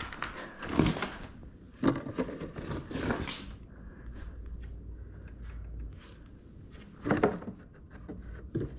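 Scattered knocks and clunks of hands and tools working on a lawn mower, a few close together early on, a quieter stretch in the middle, then another cluster of knocks near the end.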